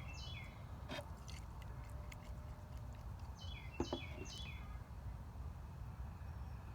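A bird sings one quick phrase of high, falling notes about three and a half seconds in, over a steady low rumble, with a couple of faint sharp ticks.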